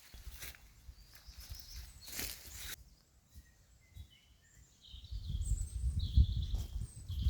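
Small birds chirping in short high calls from about halfway in, over a quiet outdoor background; a low rumble comes up near the end.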